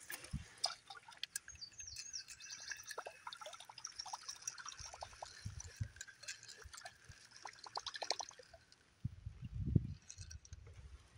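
Whopper Plopper topwater lure being reeled across the water surface, its spinning tail plopping and splashing in an irregular patter. A louder low rumbling burst comes about nine seconds in.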